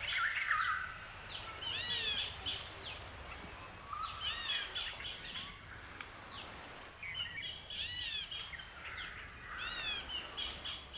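Small birds chirping, several quick high arched and falling notes overlapping in bursts every couple of seconds, over a steady low background hum.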